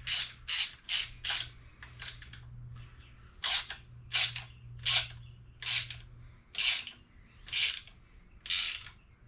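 Ratchet wrench being swung back and forth on a bolt on an engine block, each back-stroke a short rasping run of pawl clicks: three quick strokes, a pause, then a steady series of strokes.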